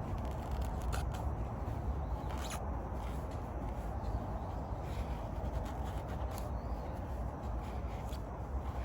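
A few short, irregular scraping strokes over a steady low rumble.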